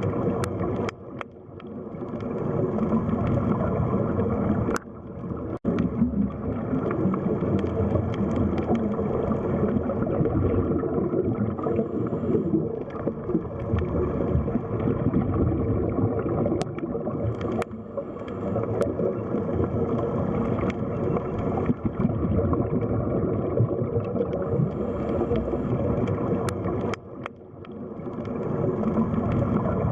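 Underwater sea ambience: a steady, muffled rush and gurgle of water with a few sharp clicks. It dips briefly about a second in and again near the end.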